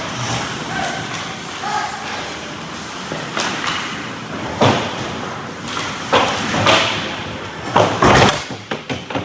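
Ice hockey play in a rink: a steady wash of rink noise broken by sharp knocks and thuds, about half a dozen, the loudest near the end.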